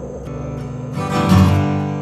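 Background music: strummed acoustic guitar, with a strong chord struck about a second in and left ringing.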